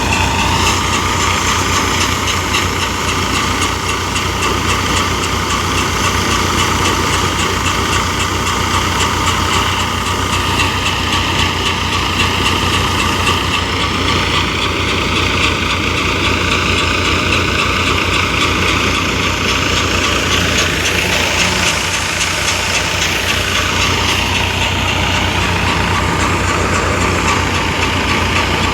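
Mustard threshing machine ('cutter') running steadily, threshing mustard, with a continuous low engine hum under a rattling machine drone.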